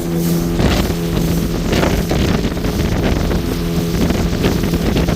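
A boat's engine running with a steady hum, under heavy wind buffeting the microphone and rushing water.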